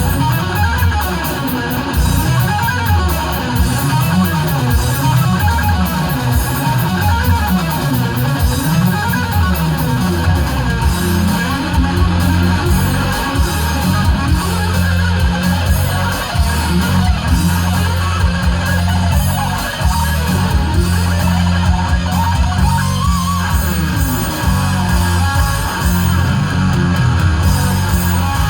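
Live instrumental heavy metal: electric guitar playing fast runs that climb and fall in pitch over a steady bass line.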